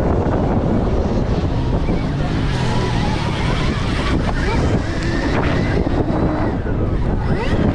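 Heavy wind buffeting on the microphone of a Stark Varg electric dirt bike at speed, with a faint whine from the electric motor sliding up and down in pitch.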